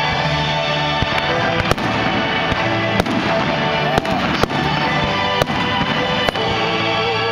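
Fireworks bursting in sharp bangs about once a second over continuous music.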